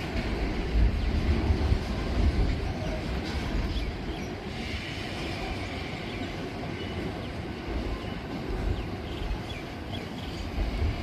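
Freight train rolling across a river bridge: a steady rumble of wheels on rail.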